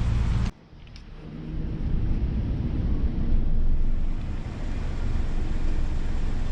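Wind buffeting the microphone over a low traffic rumble, cut off abruptly about half a second in; then a steady low rumble of a car idling, heard from inside the cabin, building up over the next couple of seconds.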